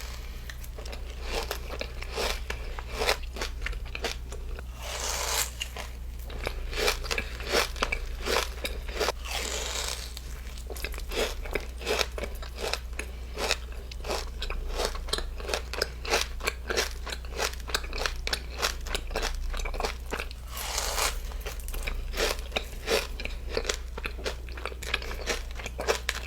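Close-miked eating: a person biting into and chewing crunchy food, with many short sharp crunches and no talking.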